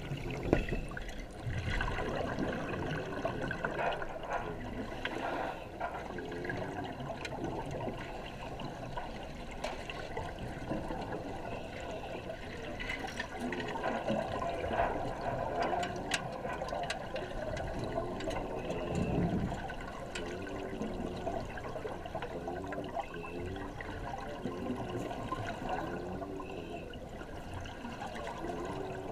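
Water bubbling and gurgling without a break, with uneven swells.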